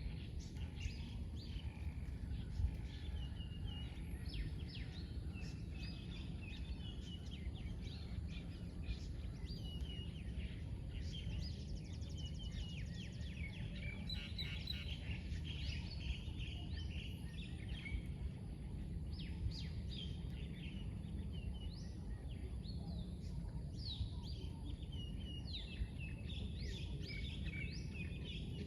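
Several birds calling with short chirps and quick trills, overlapping, above a steady low background rumble.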